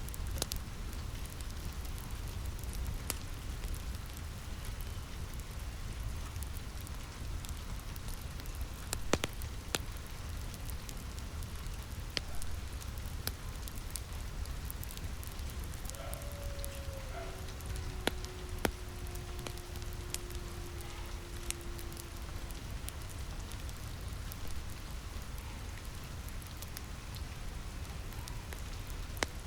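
Steady rain on a roof mixed with a crackling fireplace: an even rain hiss with scattered sharp pops, and a faint thin whistling tone for a few seconds about halfway through.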